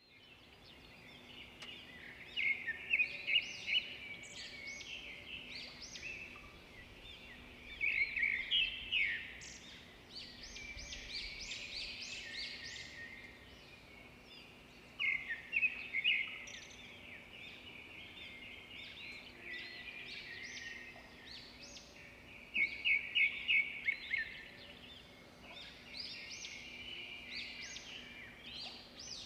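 Songbird singing: phrases of quick high chirps, repeated every few seconds, over a faint steady low hum.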